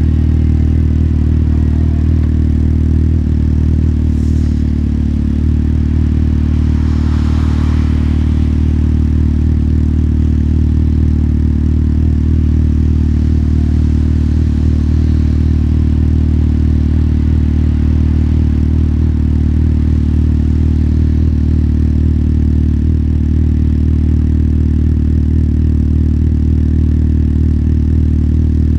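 Motorcycle engine idling steadily, with an even low note. About seven seconds in, a faint hiss rises and fades.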